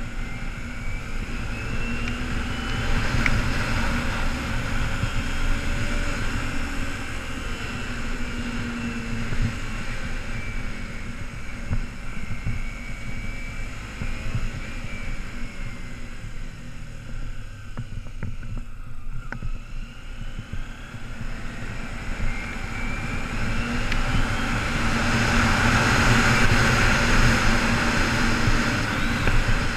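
2008 Kawasaki Ninja 250R's parallel-twin engine running under way. Its pitch rises as it accelerates in the first few seconds, drops and goes quieter around the middle, then climbs again to its loudest near the end.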